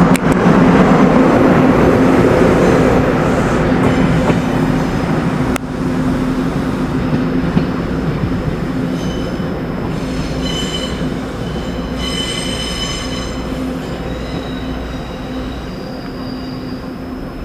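Train running through a station, loud at first and slowly fading, with a steady low hum under the rumble of the wheels. High thin wheel squeals come in from about halfway through.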